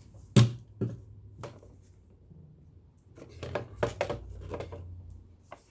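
Handling sounds on a metal sewing machine during oiling. One sharp click or knock about half a second in is the loudest, followed by two smaller clicks, then a cluster of light clicks and taps between about three and five seconds in.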